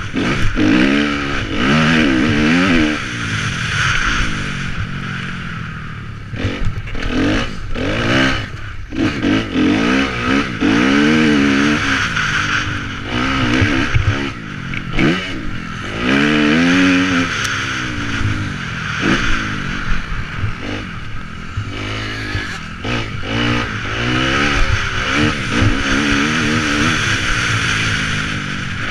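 Motocross bike engine, recorded onboard, revving up and dropping back over and over as it accelerates and eases off around the track, under a steady rush of wind noise.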